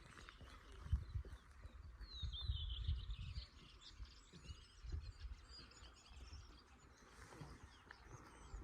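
Small birds chirping in short high calls over faint open-air background noise, with a few low rumbles on the microphone, the loudest about two to three and a half seconds in.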